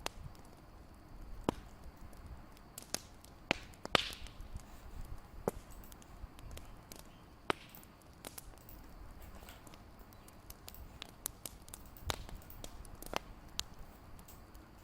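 Wood fire crackling, with irregular sharp pops and snaps a few times a second over a soft low hiss; the loudest pop comes about four seconds in.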